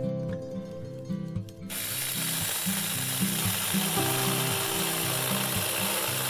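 Background music with a repeating bass line. A little under two seconds in, a steady rasping noise joins and carries on: a small battery-powered mini chainsaw cutting wood.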